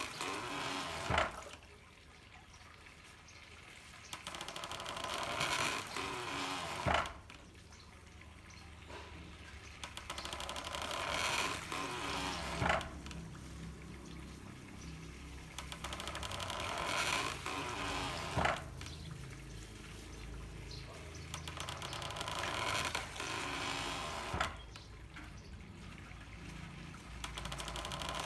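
Handmade water-powered corn mill working: water running through bamboo pipes swells and eases in a steady cycle, and a sharp knock sounds about every six seconds, five times in all.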